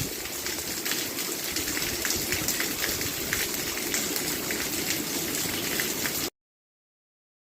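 Steady rain falling: an even hiss with many small drop ticks. It cuts off suddenly to dead silence about six seconds in.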